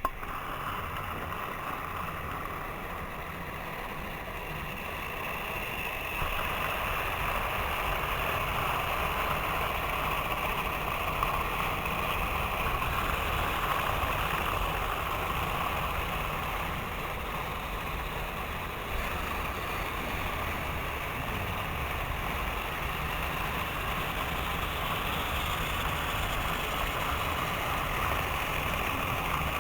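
Several model trains running on their track together: a steady whir of electric motors and a rumble of wheels on rails, louder from about six seconds in.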